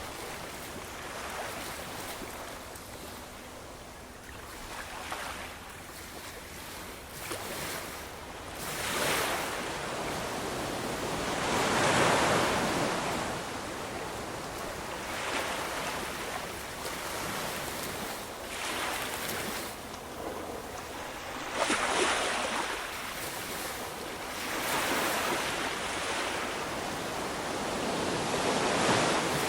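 Ocean waves breaking and washing on the shore in repeated swells, a wave every few seconds. The loudest break comes about twelve seconds in, and a sharper crash about twenty-two seconds in.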